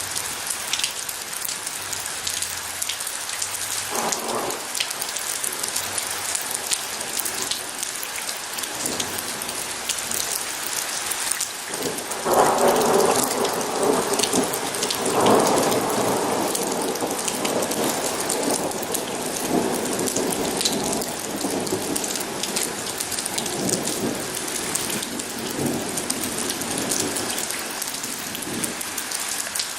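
Steady rain pattering, with a roll of thunder about twelve seconds in that peaks over the next few seconds and slowly fades; a fainter rumble comes about four seconds in.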